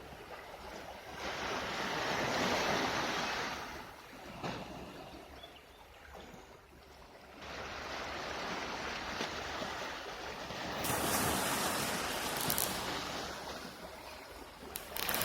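Baltic Sea waves washing onto the shore, a hiss of surf that swells and fades: one surge about a second in, a lull, then a longer surge from about seven seconds in.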